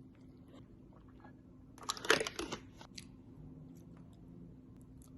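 A short crackling, crunching burst about two seconds in as a small packaged cake is handled and opened, with a few faint clicks and soft handling sounds around it.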